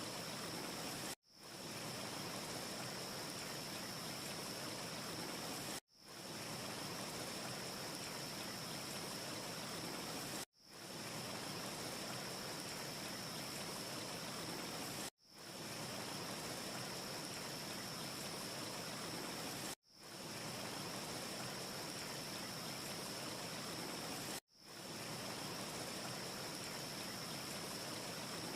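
Steady, soft hiss of a looped wind ambience. It cuts out sharply and fades back in about every four and a half seconds as the short loop restarts. No fire crackles stand out.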